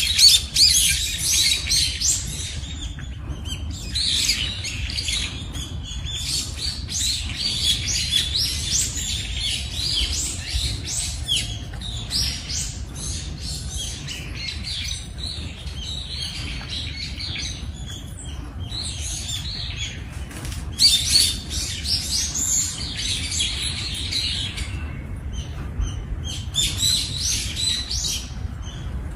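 Many small birds chirping and twittering in quick high calls that come in bursts with short lulls, over a steady low rumble.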